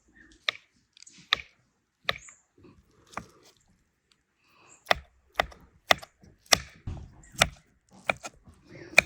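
Knife chopping on a cutting board: a few spaced strokes, a short pause, then steadier chopping at about two strokes a second from about halfway through.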